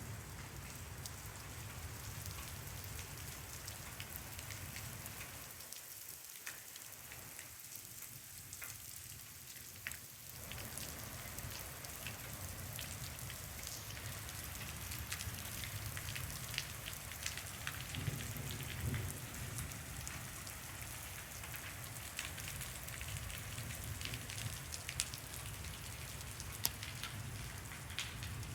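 Heavy downpour: a steady hiss of rain with the sharp ticks of single drops striking surfaces scattered all through it.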